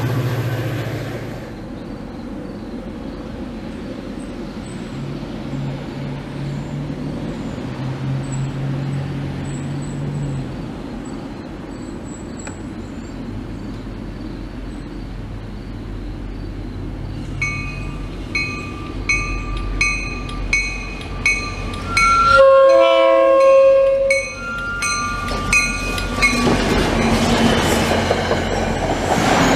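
Commuter train arriving: a steady low distant rumble, then a warning bell dinging about one and a half times a second for the last third. Partway through the bell, one long train horn blast of about a second and a half, then the train rumbles past close by near the end.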